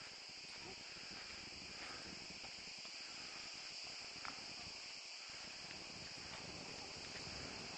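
Steady high-pitched chorus of insects in the woods, over faint rustling, with a small knock about four seconds in.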